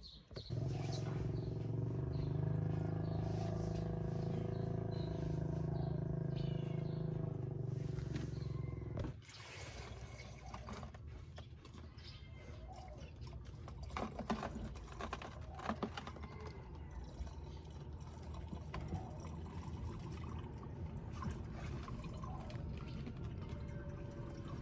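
Low, steady engine drone for about the first nine seconds, cutting off abruptly; after that, quieter background with scattered knocks and clicks.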